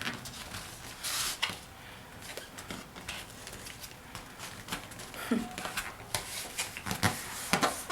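A sheet of paper being handled and folded: soft rustling and crinkling with scattered short creasing clicks, a few sharper ones near the end.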